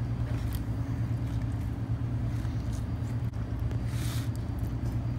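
Steady low hum of a car's idling engine heard inside the cabin, with a few faint mouth clicks of someone chewing a sandwich.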